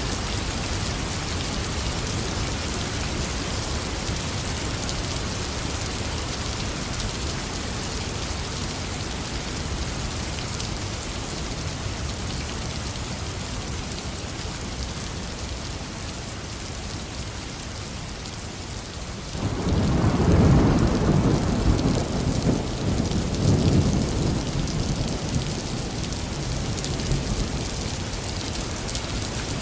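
Heavy rain falling steadily. About two-thirds of the way through, a clap of thunder breaks in suddenly and rolls low and loud for several seconds before fading back under the rain.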